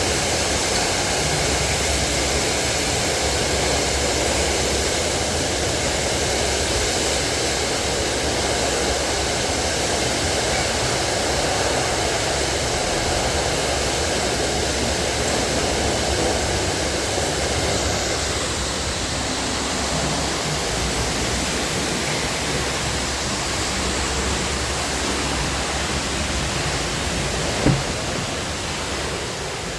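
Steady rush of water spraying onto a car at a car wash, with one short tick near the end.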